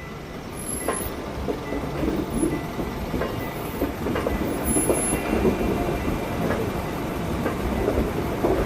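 Train passing, its wheels clattering over the rails, growing louder.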